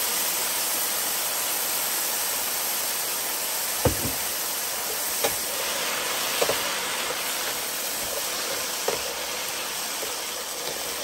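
Spam and riced cauliflower sizzling steadily in a nonstick skillet, with a few knocks of a wooden spatula against the pan as the mix is stirred, the loudest about four seconds in.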